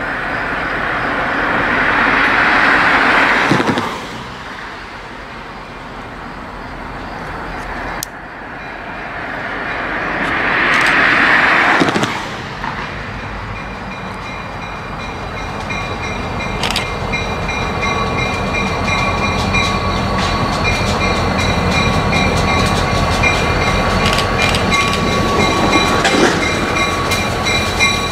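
Mass Coastal Railroad diesel locomotive approaching slowly with a rail train. It sounds two long horn blasts in the first half, each swelling and cutting off abruptly. Its engine and wheel noise then grow steadily louder, with steady whining tones and a light clickety-clack.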